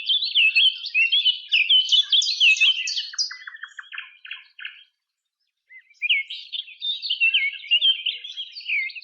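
Songbird singing a fast, varied song of chirping notes, stopping briefly about five seconds in, then starting again.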